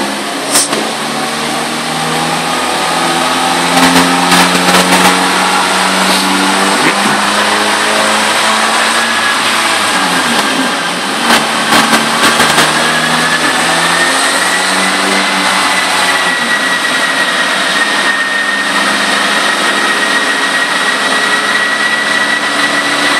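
Turbocharged Citroën Saxo VTR petrol engine running under load on a rolling road dyno, climbing through the revs with a high whine that rises in pitch and then holds steady. About ten seconds in the engine note drops briefly and a few sharp cracks follow before it pulls again.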